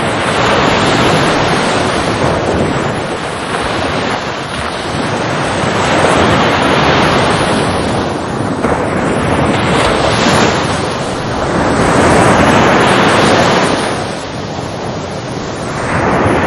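Ocean surf, waves breaking and washing up in repeated swells, the rush rising and falling every few seconds.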